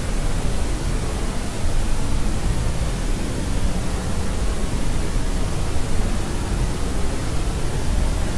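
Steady sleep-aid white noise, an even hiss with most of its weight in the low end, unchanging throughout.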